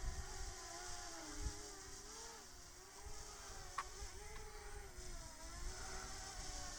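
DJI Mavic Mini quadcopter's propellers buzzing, the pitch wavering up and down as the motors work against strong gusty wind. Wind rumbles on the microphone underneath.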